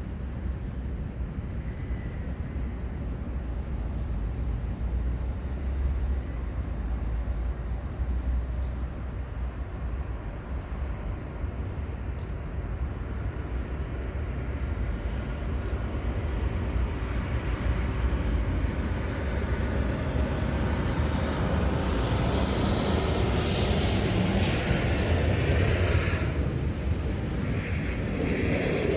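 A jet airliner passing near the shore, its engine noise growing steadily louder over the second half over a constant low rumble.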